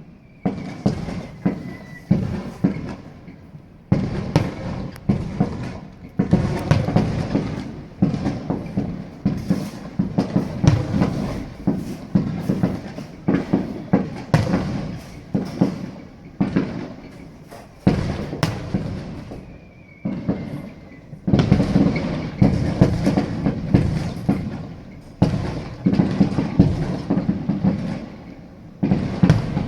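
Fireworks display: a dense, continuous barrage of shell bursts, many bangs a second with crackle between them, surging louder several times. A faint falling whistle is heard near the start and again about two-thirds of the way through.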